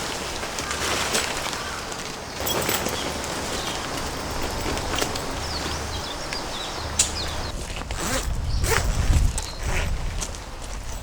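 Rustling, zipper-like handling noise with scattered sharp clicks, and heavy low rumbling about eight to ten seconds in.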